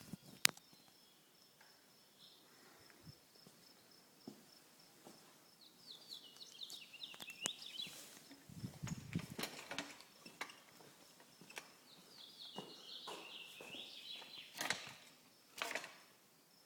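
Hummingbird chittering: two rapid runs of short high chirps, each falling in pitch, about five seconds in and again about twelve seconds in, with scattered clicks and taps between them.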